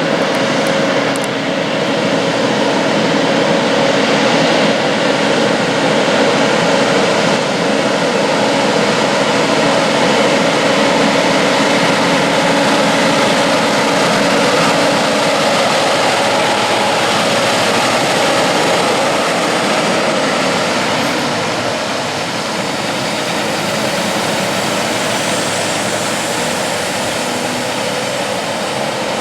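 Heavy truck's diesel engine running loud and steady, dipping slightly about two-thirds of the way through.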